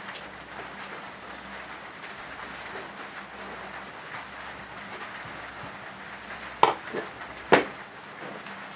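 Steady patter of rain. Near the end, two sharp clacks less than a second apart, with a lighter one between, as the metal burger press's parts are knocked together.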